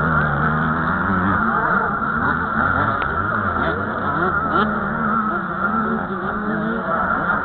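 Several 85 cc two-stroke motocross bikes racing, engines revving up and down as they accelerate and shift, their pitches overlapping.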